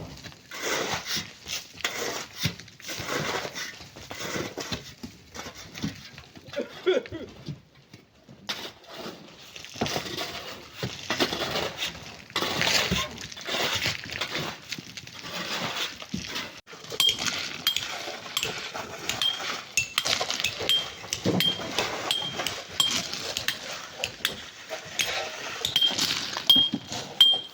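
Hand tools scraping and knocking as they dig into sand and stones, in an irregular rhythm of strokes. In the second half a short high chirp repeats a little more than once a second.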